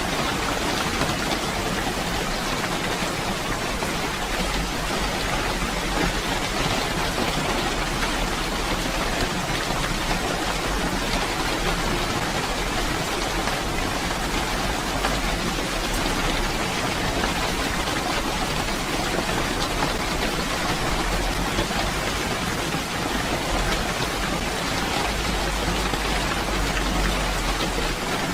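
Steady, dense rainfall with many close drops pattering on surfaces.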